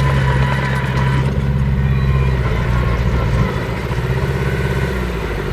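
Heavy diesel engine of an earthmoving machine running steadily under load, with some clatter. The engine note drops back about three and a half seconds in.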